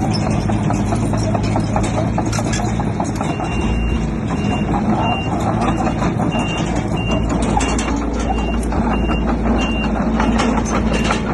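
Heavy diesel construction machinery running under steady load, with frequent clanking and clatter. A reversing alarm beeps about twice a second from about three seconds in until near the end.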